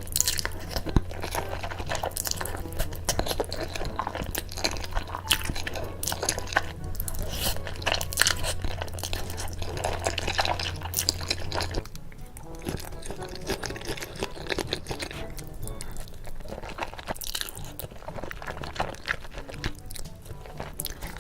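Close-miked chewing and crunching of food in mukbang-style eating sounds, a dense run of irregular crackles and bites. A low steady hum under it stops about halfway through.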